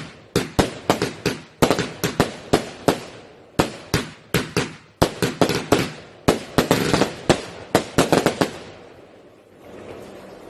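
Fireworks going off in a rapid string of sharp bangs, about three a second, each with a short ringing tail. The bangs stop about eight and a half seconds in.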